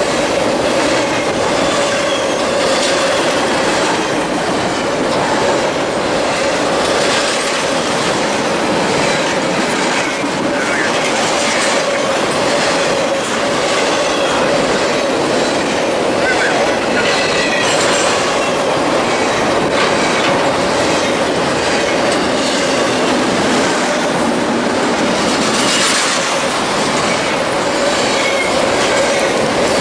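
Double-stack intermodal container freight train passing close by: steady noise of steel wheels on the rails and the cars clattering, with brief high wheel squeals coming and going.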